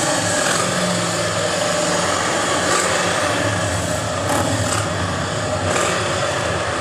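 Vehicle engines idling close by, a steady low rumble with a busy noisy haze over it.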